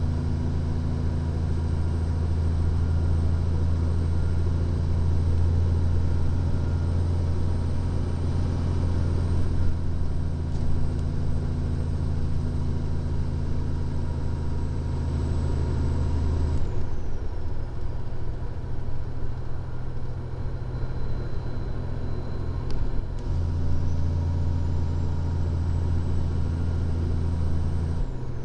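Steady engine and drivetrain drone inside the cab of a 2014 Freightliner Columbia glider truck going down a steep grade, with a faint high whine above it. About 17 seconds in, the low drone thins and the whine glides down; both come back about six seconds later.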